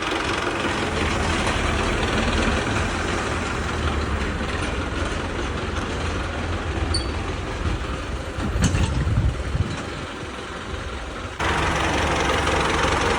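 Tractor engine running steadily with a low hum. There is a brief, louder clatter about two-thirds of the way through, and the sound jumps abruptly back to full loudness shortly after.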